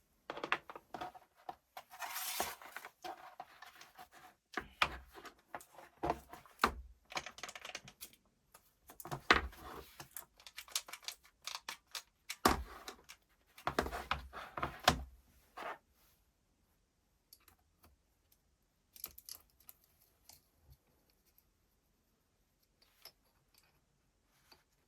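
Hard plastic and metal drill parts being handled on a workbench: irregular clicks, rattles and short scrapes, busy for about the first sixteen seconds, then only a few scattered clicks.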